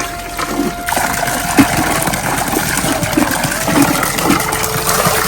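Steady rush of water in heavy rain.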